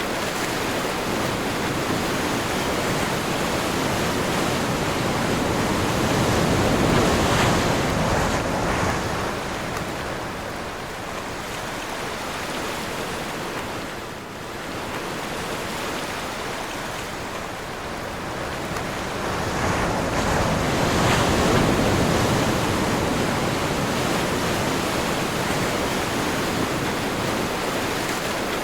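Sea waves breaking in a strong wind, a steady rush of surf that swells twice, about seven seconds in and again about twenty-one seconds in.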